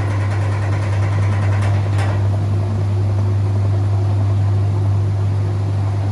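Whirlpool 3RLSQ8033SWD top-loading washing machine pumping out its wash water, the motor and drain pump running with a steady low hum.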